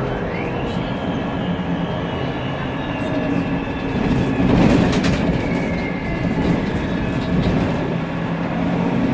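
Cabin sound of a Mercedes-Benz Conecto NGT city bus under way, with its CNG engine and drivetrain rumbling and the cooling fan running. The Voith DIWA automatic gearbox gives a whistling whine that rises sharply in the first second and then slowly falls as the bus goes on. About halfway through there is a louder spell of rattling and clatter.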